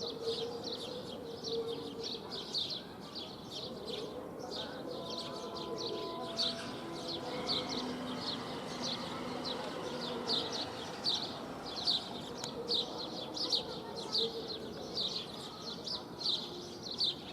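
House sparrow chirping over and over, a steady run of short high chirps a few times a second.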